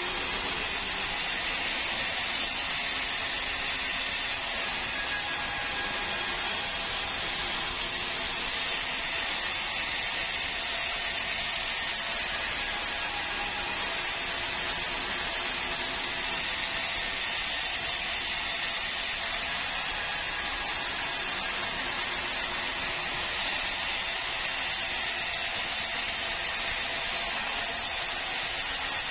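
Sawmill saw running steadily, cutting through a meranti log with an even high hiss.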